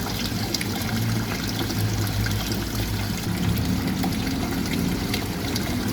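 Water trickling and splashing steadily with many small drips, over a low steady hum.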